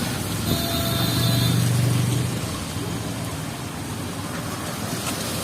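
Street ambience in heavy rain: a steady hiss of rain, with a motor vehicle's engine running close by for the first two seconds or so before it fades.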